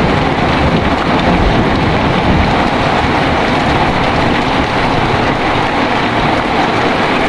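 Heavy rain falling steadily, with a low rumble of thunder that eases off about three seconds in.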